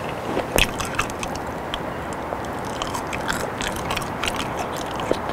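Close-miked chewing of soft boiled potato on a clip-on microphone: many short, wet mouth clicks and smacks, over a steady low background rumble.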